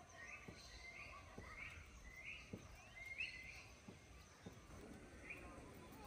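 Faint bird chirps: a series of short, rising calls, with a few soft taps between them.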